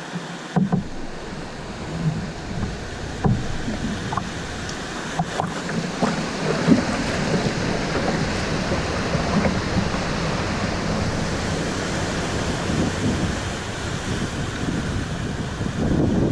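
Swollen river water rushing and splashing around a kayak, with wind rumbling on the microphone. There are a few sharp knocks and splashes in the first several seconds.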